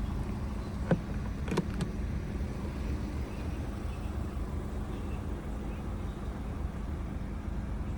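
A car engine idling steadily, with three sharp clicks in the first two seconds.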